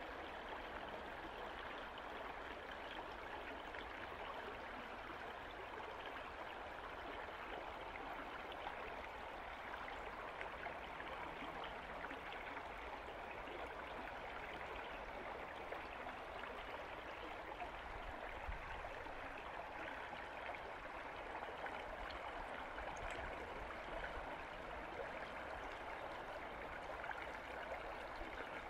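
Small creek babbling steadily over its bed, a soft even water sound.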